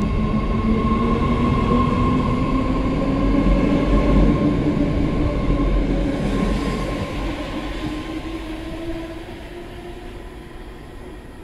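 BART Fleet of the Future six-car train pulling out and accelerating, its IEC Holden traction motors whining in several tones that rise slowly in pitch over wheel rumble on the rail. The sound fades from about seven seconds in as the last car passes and the train moves away.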